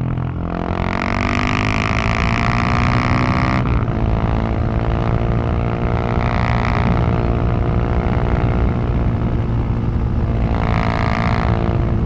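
Husqvarna 701 supermoto's single-cylinder engine pulling under throttle, heard at the exhaust. The revs climb over the first few seconds, break sharply at a gear shift about three and a half seconds in, then pull on steadily, building again near the end.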